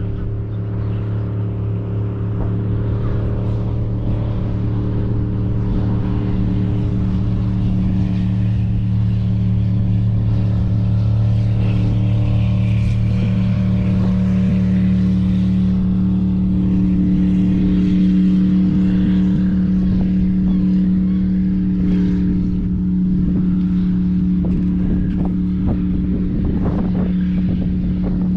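Steady low engine drone holding a constant pitch, with some faint short ticks near the end.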